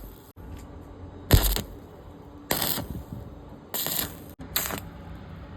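A series of short tack welds joining the metal plates to the rod, each a brief sharp burst lasting about a third of a second, roughly a second apart.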